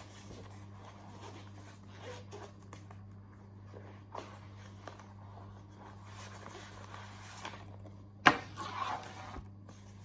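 Steady low appliance hum under light kitchen handling noises: small clicks and rustles, with one sharp knock a little over eight seconds in, followed by a moment of rustling.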